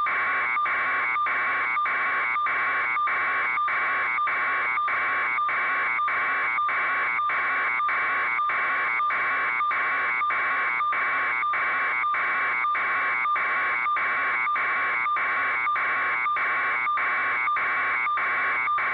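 Electronic alarm buzzer sounding without a break: a harsh, steady tone pulsing about two and a half times a second.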